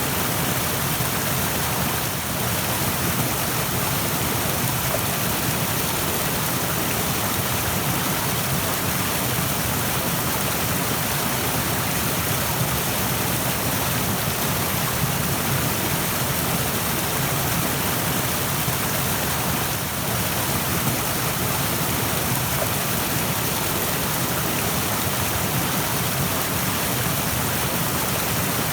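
A rushing stream, water running fast and steady over rocks.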